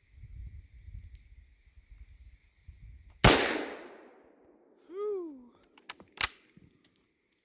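A single loud, sharp crack about three seconds in, fading out over about a second, followed by a short grunt-like sound and a couple of small clicks.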